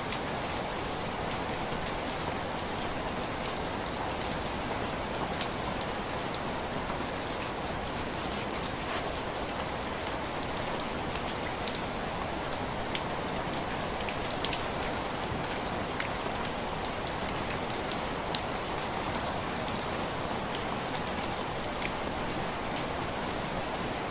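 Steady rain on window glass: an even hiss with individual drops tapping sharply here and there.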